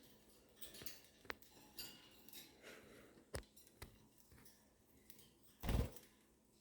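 Scattered faint clicks and taps, with one dull thump near the end.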